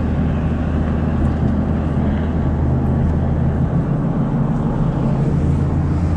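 Steady drone of a car's engine and tyres on the road, heard inside the moving car's cabin, with a slight change in the low hum around the middle.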